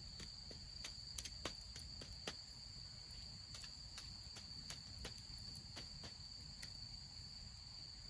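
Crickets or other insects trilling steadily at a high pitch. Small irregular crackles and pops, a few a second, come from a freshly lit twig campfire.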